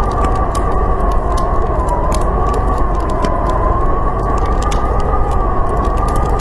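Howling blizzard wind, a whistling tone that slowly rises and falls over a steady low rumble, with the scattered snapping crackle of a wood fire.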